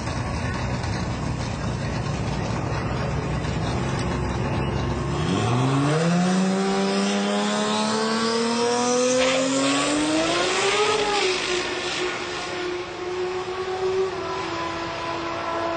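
Toyota Supra drag car's engine rumbling low at the start line, then launching about five seconds in: the engine note jumps and climbs steadily for several seconds at full throttle as the car accelerates down the strip. It then levels off to a steady tone.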